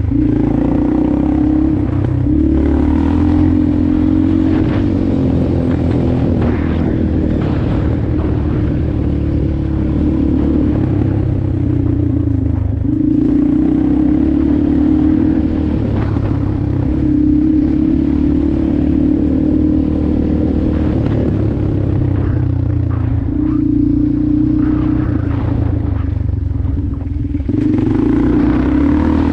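Motorcycle engine running hard while riding, its pitch stepping up and dropping back every few seconds as the rider works the throttle and gears.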